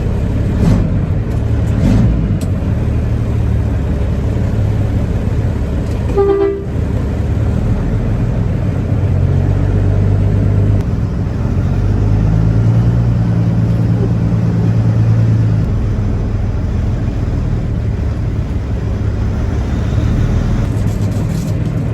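Truck engine running as the truck drives off, a steady low drone that grows louder around ten seconds in and again from about twelve to fifteen seconds as it pulls harder. A brief pitched tone, like a short toot, sounds about six seconds in.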